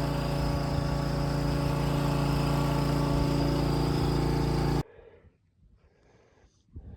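Small petrol-engine water pump running steadily at a constant speed, pumping water out of a sunken sailboat. The sound cuts off abruptly about five seconds in, leaving only faint sounds.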